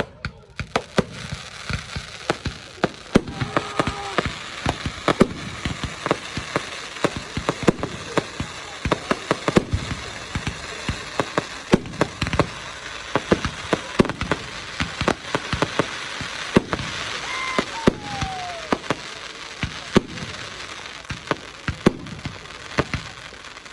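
Fireworks going off in a rapid, dense barrage of sharp bangs and cracks, several a second, over a continuous crackle. A few brief whistles glide in pitch between the bangs.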